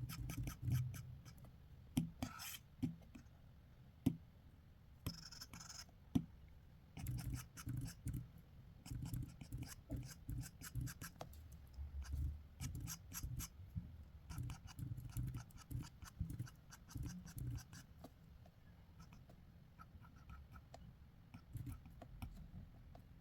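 Drawing strokes on paper: quick scratchy sketching lines, some short and some in rapid runs, with a brief rustle of the hand or paper now and then.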